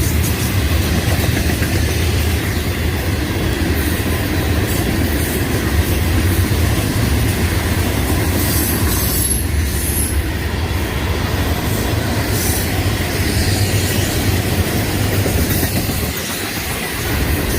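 A train passing at speed, with a steady loud rush of wheels on rail that holds for many seconds.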